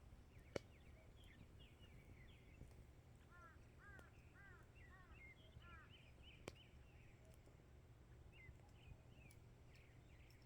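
Faint birdsong: several small birds chirping throughout, with a run of repeated arching notes in the middle, over a low steady rumble. Two sharp clicks stand out, one near the start and one about six and a half seconds in.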